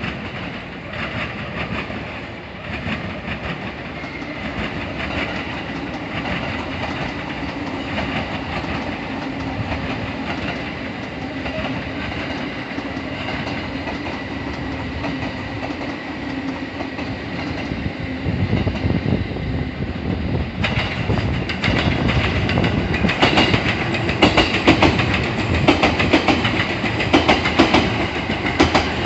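Train running past on the rails: a continuous rumble with a steady whine and wheel clatter. About two-thirds through, the clatter grows louder and sharper, with rapid clicks of wheels over rail joints.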